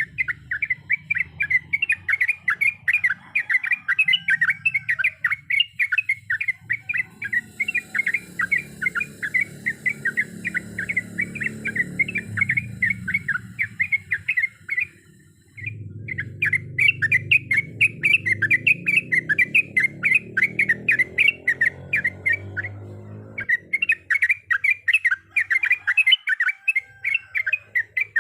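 Yellow-vented bulbul (trucukan) singing a fast, unbroken run of chirping notes, with two short breaks, one about halfway and one late on.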